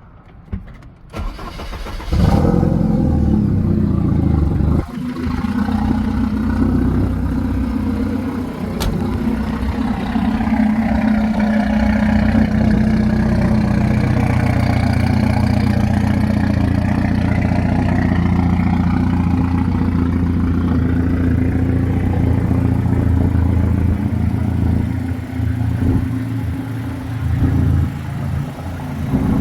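1987 Porsche 944 Turbo's turbocharged 2.5-litre four-cylinder engine cold-started: it fires and catches about two seconds in, then settles into a steady idle, with a few small dips in the note near the end.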